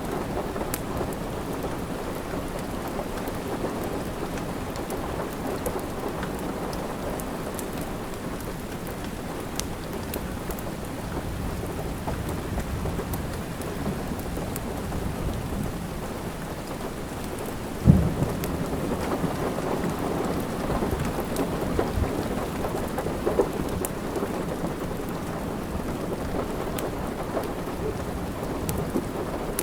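Steady heavy rain with rumbling thunder, and a sharp thunderclap about 18 seconds in that rolls on louder for several seconds. Faint sharp crackles of a wood fire are scattered through it.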